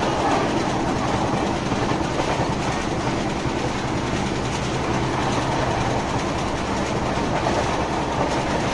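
Passenger train running at speed, heard from on board: a steady rumble of wheels on the rails with running noise from the coach.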